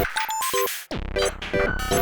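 Teenage Engineering Pocket Operator Factory and Office synthesizers playing a looped electronic pattern: short bleepy synth notes over bass notes and drum-machine hits, the loop repeating about every two seconds.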